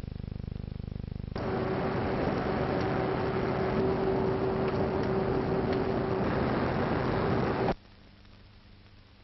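Wind tunnel running: a steady rush of air with a steady hum, cutting in abruptly about a second and a half in and cutting off sharply near the end. A lower, rapidly pulsing hum comes before it, and a faint hum after it.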